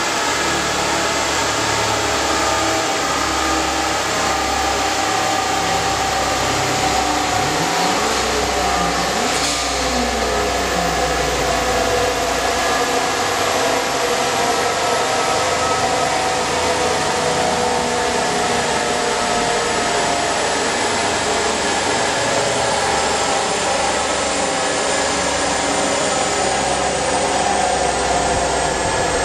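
Turbocharged Mitsubishi 6A12 MIVEC 2.0-litre V6 running steadily under a strong rushing hiss, with a brief rise and fall in engine pitch about eight to ten seconds in.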